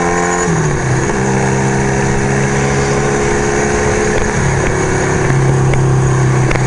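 1975 Kawasaki KZ400 parallel-twin engine running as the motorcycle rides along. Its note drops about half a second in and changes again a little past halfway, over a steady rush of wind.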